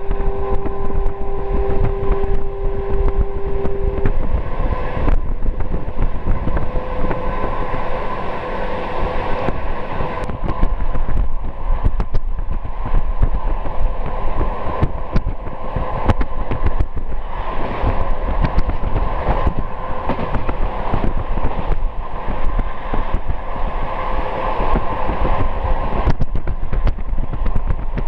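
Passenger train running at speed, heard from inside the carriage at the window: a steady rumble with irregular clatter of the wheels on the rails. A held tone sounds for about the first four seconds.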